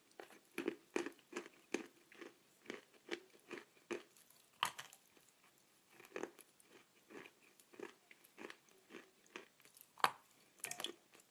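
Dry edible chalk being chewed close up: a steady run of short, crisp crunches, about three a second, with a couple of sharper, louder bites partway through.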